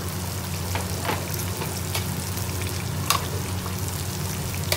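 Chicken pieces sizzling steadily in a large aluminium stockpot on a gas burner, with a low steady hum underneath. A few sharp clicks come as a long metal spoon knocks against the pot while the chicken is stirred, the loudest about three seconds in.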